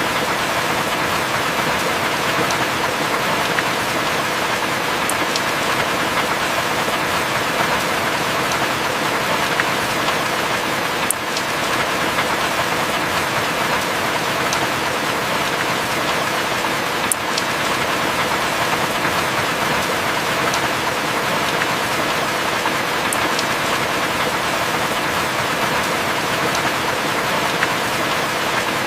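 Heavy rain falling steadily, a dense even hiss with a few sharp drip ticks scattered through it.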